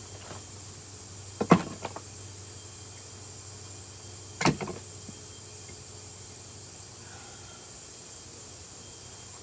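Two sharp knocks about three seconds apart, each with a smaller knock beside it: strikes batoning a Work Tuff Gear Nomad Bushcrafter knife through a knotty round of red oak.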